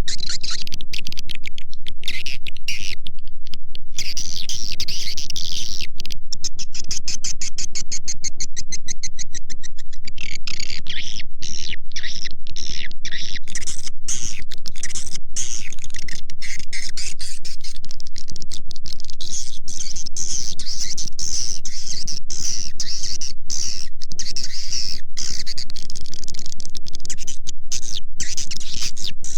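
Edible-nest swiftlets twittering in a dense, rapid stream of high chirps, as on a looped swiftlet lure recording played to call colonies into a swiftlet house. A faint steady tone runs underneath.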